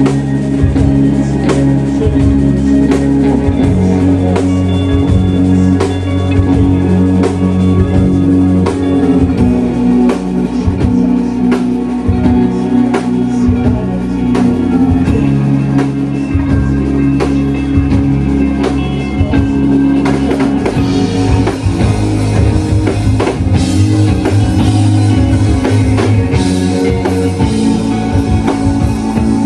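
Live shoegaze rock band playing loud: dense, sustained distorted guitars over bass and a drum kit keeping a steady beat. The sound grows fuller and busier about two-thirds of the way through.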